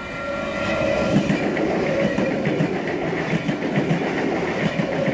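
NSW V-set electric passenger train passing through the station, its wheels clicking over the rail joints in a fast, even rhythm. The sound builds over the first second, then holds steady.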